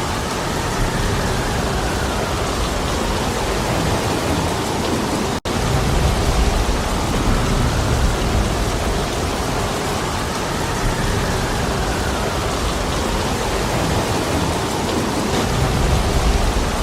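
Heavy rain falling steadily, with a low rumble of wind swelling and easing beneath it. The sound cuts out for an instant about five seconds in.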